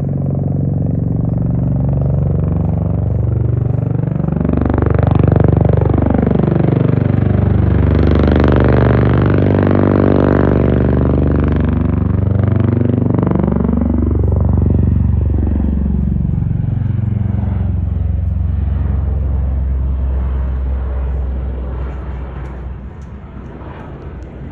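Military aircraft flying low overhead, its engine and rotor drone rising and falling in pitch as it nears, passes closest about ten seconds in, and draws away. The sound fades over the last few seconds.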